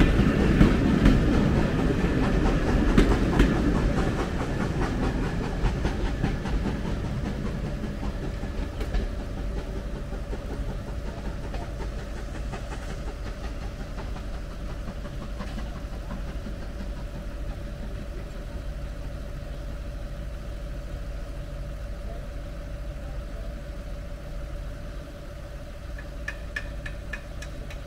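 Train's passenger coaches rolling past, wheels clattering on the rails, the sound fading steadily as the train draws away.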